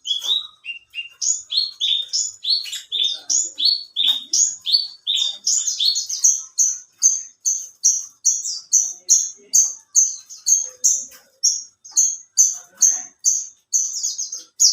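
Horsfield's bush lark (branjangan) in full song: a long run of short, sharp, repeated notes, about two to three a second, settling into an even, higher-pitched repetition in the second half.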